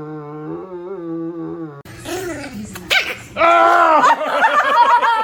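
A dog's long, low, drawn-out howl, held steady with a slight waver. After a cut, louder and higher wavering howls or cries follow, then stop abruptly.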